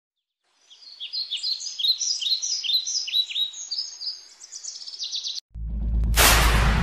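Small bird chirping in a quick run of short, high, falling notes. The chirping cuts off suddenly about five and a half seconds in, and a loud deep rumble with a hiss over it takes over.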